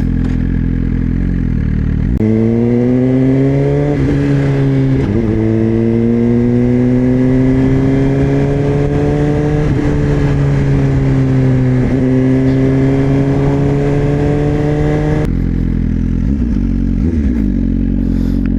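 Suzuki GSX-R1000 inline-four motorcycle engine through a LeoVince slip-on exhaust. It runs steadily at low revs, then about two seconds in it pulls away, rising in pitch through several gears with a short dip at each upshift. Near the end the throttle closes and it settles back to a steady low note.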